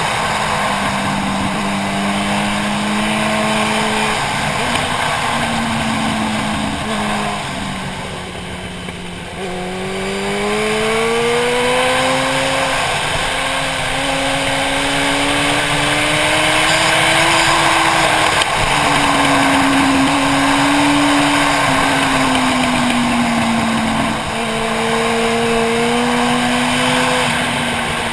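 Motorcycle engine running under way, with wind noise over the helmet camera. Its note falls and quietens about eight seconds in, then climbs again as it accelerates, with several later steps up and down in pitch.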